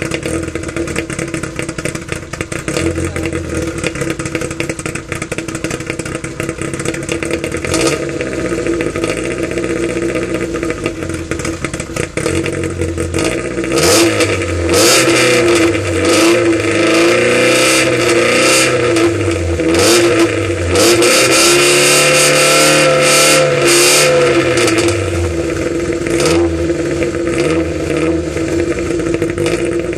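Škoda Favorit's 1.3-litre four-cylinder engine heard at the exhaust, idling and being blipped again and again, the revs rising and falling. Through the middle the revs go higher and are held longer, and this is the loudest part.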